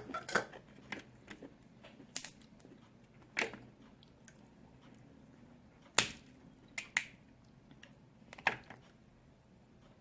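Snow crab leg shells being cracked and snapped apart by hand: a string of sharp cracks and clicks a second or two apart, the loudest about six seconds in, with chewing between them.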